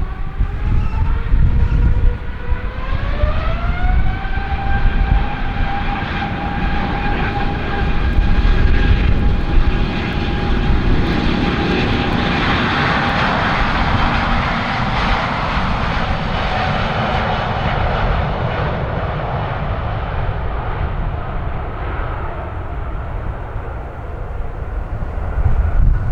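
Airbus A350-941's Rolls-Royce Trent XWB engines spooling up for takeoff: the fan whine rises in pitch a few seconds in, then holds steady as the jet noise swells near the middle and eases off toward the end. Strong wind rumbles on the microphone underneath.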